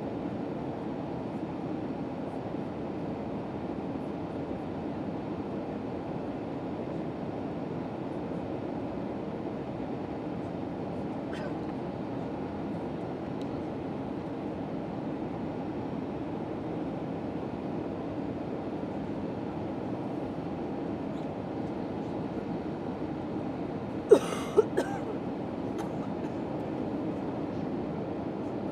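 Steady low cabin noise inside an Airbus A319 airliner, the even hum of engines and airflow heard from a window seat. A few sharp knocks or clicks come in quick succession near the end.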